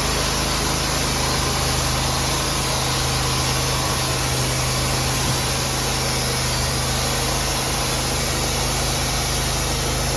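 Sawmill engine running steadily, a constant hum under heavy hiss.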